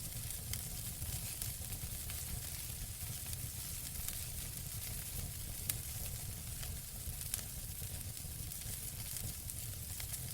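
Wood fire burning in a fireplace: a steady low rumble and hiss, with scattered sharp crackles, two of them louder about six and seven seconds in.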